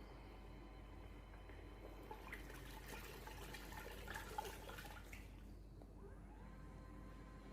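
Water sloshing and dripping faintly in the tub of a Moyu folding portable mini washing machine, over a steady low hum.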